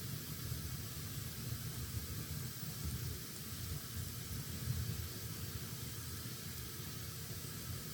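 Fire burning in a fireplace: a steady hiss over a low rumble, with a faint crackle now and then.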